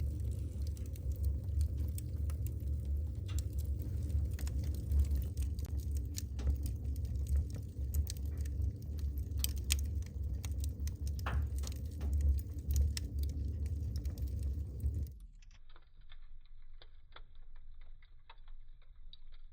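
Wood fire in a fireplace crackling and popping over a steady low rumble of the flames. About fifteen seconds in, the rumble cuts off abruptly and only fainter, duller crackles remain.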